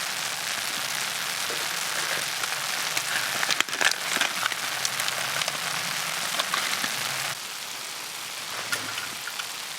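Monjayaki sizzling on a hot iron griddle: a steady hiss with scattered crackles and a few sharper clicks about four seconds in. A little past seven seconds the hiss drops abruptly to a quieter level.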